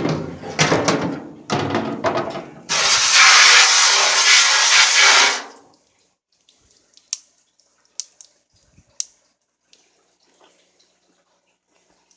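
Water splashing, then running or pouring steadily for about three seconds and stopping abruptly, followed by a few scattered drips.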